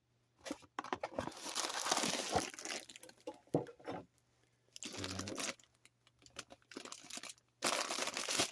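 Packaging of an expired cake mix being torn open and crinkled, in irregular rustling spells with a louder tearing rustle near the end.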